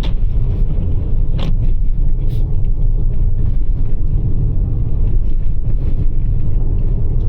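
Steady tyre and road rumble heard inside the cabin of a Toyota RAV4 Prime on Blizzak snow tires, driving through snow. A few short ticks sound over it in the first couple of seconds.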